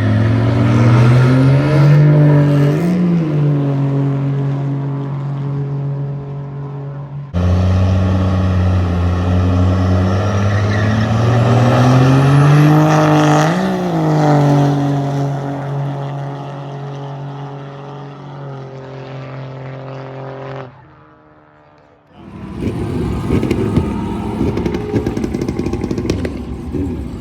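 Car engines running at a steady pitch, each rising briefly in a short rev, in several clips that cut one into the next. Near the end the sound turns to a rougher engine noise with scattered ticks.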